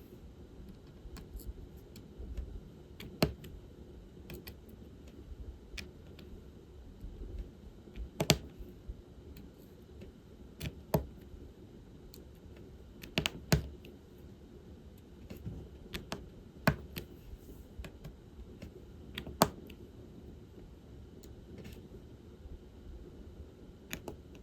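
Diamond painting work: a drill pen picking up small resin drills from a plastic tray and pressing them onto the canvas. It makes light, irregular clicks and taps, with a louder sharp click every two to three seconds.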